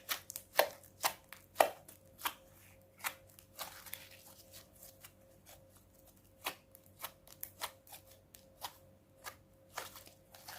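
Clear-glue and borax slime being squeezed and poked, giving sharp, irregular clicks and pops about one or two a second, loudest in the first two seconds.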